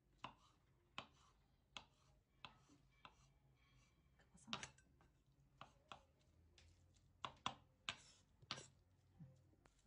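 Quiet, sharp clicks and snaps, about a dozen, at uneven intervals: small handling or cutting noises during food preparation.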